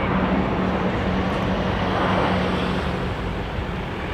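Airbus A400M Atlas's four turboprop engines running in flight, a steady noise with a constant low propeller tone that eases slightly near the end.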